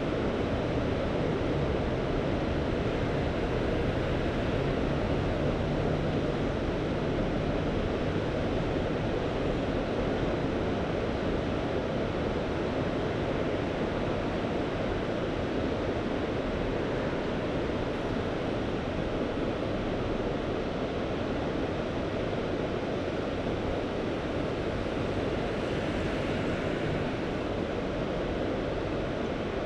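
Steady, even wash of Mediterranean sea surf, a continuous noise without distinct wave breaks.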